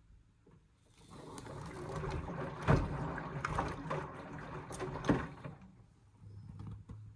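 Indesit washing machine drum turning in a rinse, water sloshing and the wet down jackets tumbling, with two loud thuds as the load drops. A short low motor hum follows near the end.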